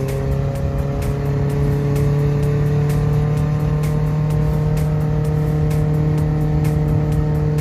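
Toyota 3SZ 1.5-litre four-cylinder engine in a converted VW bus running steadily under way, a constant drone whose pitch creeps up slightly, with light clicks and rattles throughout.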